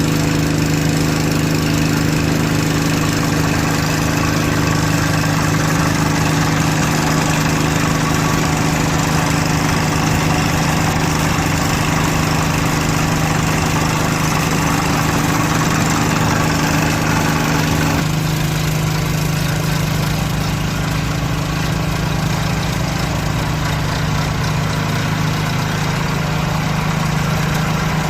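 Massey Ferguson MF 290 tractor's 4.41-litre four-cylinder direct-injection diesel engine running steadily. About two-thirds of the way through, its sound shifts and becomes a little quieter, with the higher tones dropping away.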